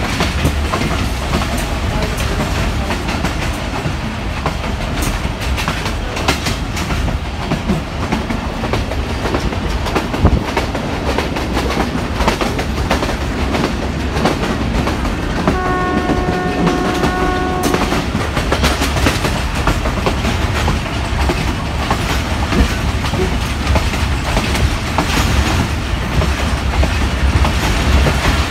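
Passenger train running at speed, heard from a coach window: a steady rumble with wheel clicks. About halfway through, the locomotive's horn sounds one steady note for about two seconds.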